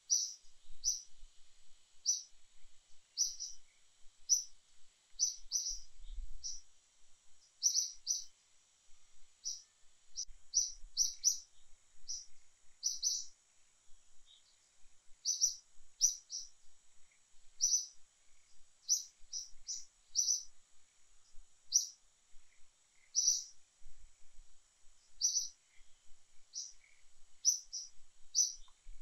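A bird chirping: short, high, sharp chirps repeated irregularly, about one or two a second.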